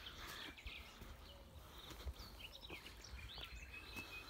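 Faint outdoor ambience of small birds chirping now and then, short high chirps scattered through, over a low rumble.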